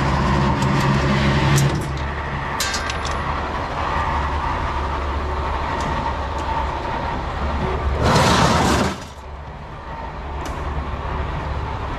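A steady low engine-like hum, with a few light clicks and knocks, and a loud rush of noise lasting about a second, about eight seconds in.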